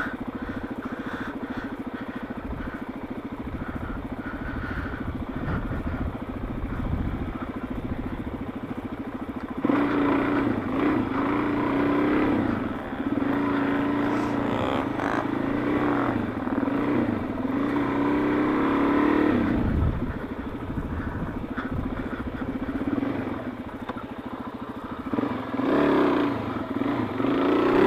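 2004 Suzuki DR-Z400S single-cylinder four-stroke engine running under way, steady at first, then louder from about ten seconds in as the throttle is worked, its pitch rising and falling, with dips near twenty and twenty-four seconds.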